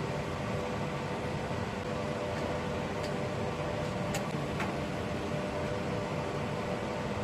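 Woodturning lathe and workshop dust extractor running with a steady drone, with a few faint ticks near the middle.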